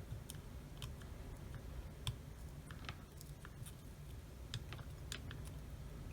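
Scattered small clicks and taps of the camera's plastic housing and parts being handled during disassembly, the sharpest one about two seconds in, over a steady low hum.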